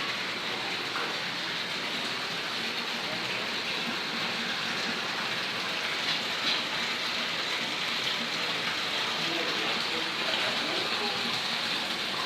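Steady hiss of falling water, even and unbroken throughout.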